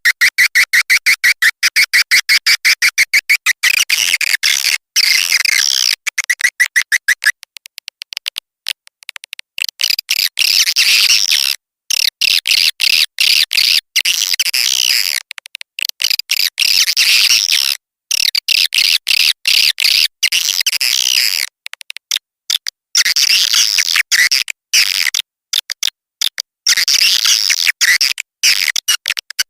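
Edible-nest swiftlet calls played as a lure sound for a swiftlet house. It opens with a fast, even train of chirps for about seven seconds, then turns to higher, buzzy twittering in bursts with short gaps.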